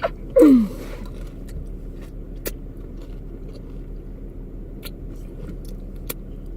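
Steady low hum inside a car cabin, with a few isolated sharp crunches and clicks from nacho chips being eaten and handled.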